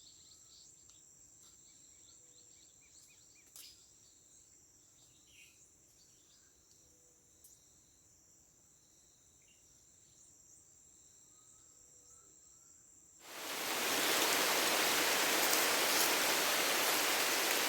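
Faint insect chorus with a steady high trill. About thirteen seconds in, heavy rain sets in suddenly as a loud, even hiss that drowns the insects.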